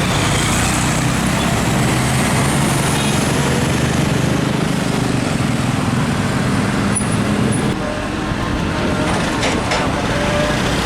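Heavy diesel trucks passing on a highway, with engine drone and tyre noise; the engine sound drops away about eight seconds in as a truck goes by.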